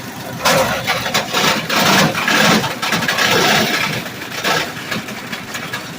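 MacKissic Mighty Mac wood chipper-shredder running. From about half a second in, a loud clattering rush lasts about three seconds as material fed into it is struck by the free-swinging rotor blades, then it settles back to the steady engine.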